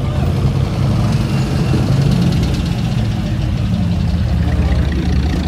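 Truck engine idling loudly with a steady low rumble.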